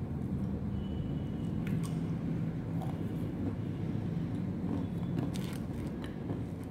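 Close-up chewing of banana and peanuts, with a few small crisp crunches and clicks. A steady low hum runs underneath.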